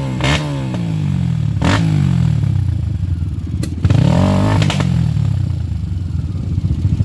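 Dirt bike engines revving up and easing off again and again, more than one engine overlapping, with a few knocks in between.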